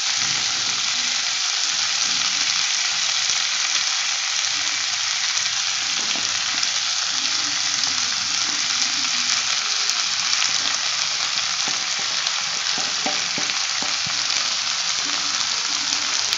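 Vegetables sizzling in hot oil in a kadai, a steady frying hiss. Cooked basmati rice is tipped on, and a steel ladle scrapes and taps lightly against the pan now and then as it spreads the rice.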